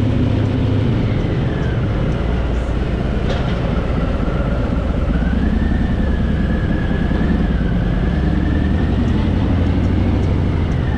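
Harley-Davidson Fat Boy V-twin running steadily at road speed, with heavy wind rumble on the microphone and a faint whine that wavers slowly up and down above it.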